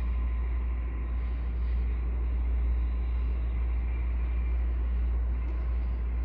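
Steady low rumble of a distant commuter train moving slowly behind an EMD F59PH diesel locomotive, blended into a constant outdoor city background with no distinct horn, bell or clanks.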